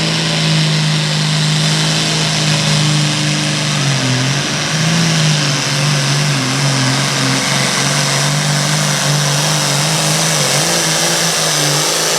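Modified John Deere classic super stock pulling tractor's diesel engine running flat out under load as it drags the weight sled down the track. The engine pitch holds high and steady, sagging and wavering briefly about four seconds in before picking back up.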